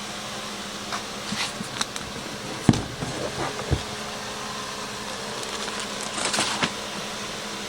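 Handling sounds from unboxing a generator: scattered light knocks, a sharp thud about two and a half seconds in and a second one about a second later, then rustling and clicking near the end, over a steady hum.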